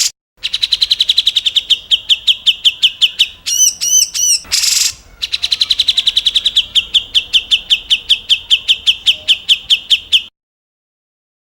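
Recorded songbird 'tembakan' song: long rapid trills of about ten sharp notes a second, each run falling slightly in pitch. The trill is broken a third of the way in by a few arched whistled notes and a short harsh burst, and it cuts off to silence near the end.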